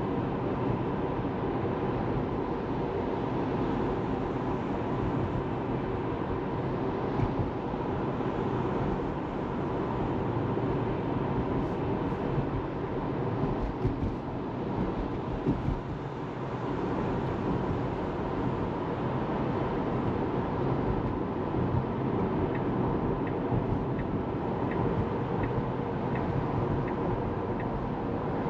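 Steady road and tyre noise from a Tesla Model 3 driving along, an electric car with no engine sound. Near the end comes a short run of faint, evenly spaced ticks.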